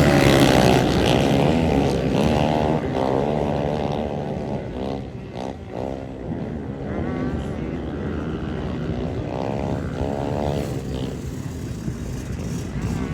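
Several dirt bike engines revving, their pitch rising and falling as the bikes labour through deep mud. Loudest in the first few seconds, then lower.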